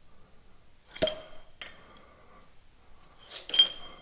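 Sharp metal clinks of steel bolts and hand tools being handled and set down: three strikes, one about a second in, a lighter one half a second later and the loudest near the end, each with a brief ringing.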